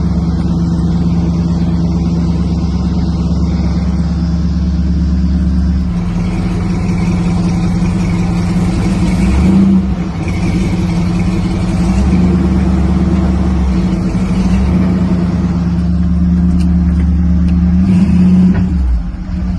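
Oldsmobile 350 Rocket V8 in a 1954 Ford F-100 pickup running under way on a ride. The engine note is steady, rises a little and then dips briefly about ten seconds in and again near the end.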